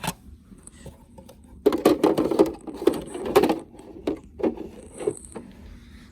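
Plastic toy truck being picked up and handled: a loud burst of clattering and rattling knocks about two seconds in, then a few separate knocks.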